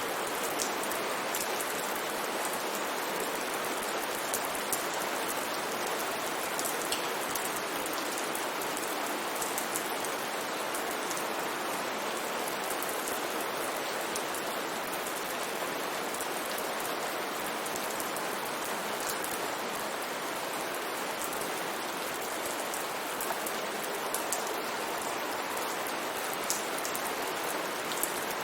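Steady rain falling, with a dense even hiss and scattered small drop ticks.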